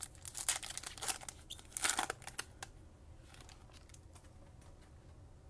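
Crinkling and rustling of a foil trading-card pack wrapper being handled, a quick run of crackly noises that stops about two and a half seconds in.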